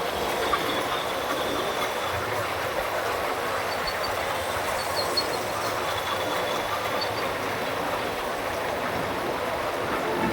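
Steady rushing noise of a moving motorcycle: wind and road noise, with no distinct engine note or rhythm and a few faint high squeaks.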